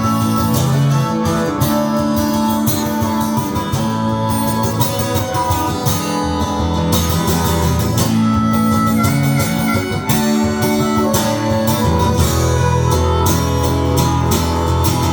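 Live band playing an instrumental break in a slow country song: guitar with held melody notes over a steady bass.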